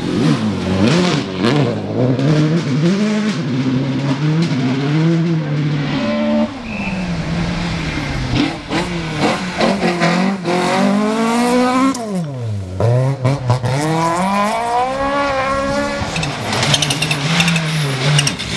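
Rally car engine at hard throttle, revving up and dropping back repeatedly through gear changes and lifts, with one deep drop in revs about two-thirds through followed by a steep climb.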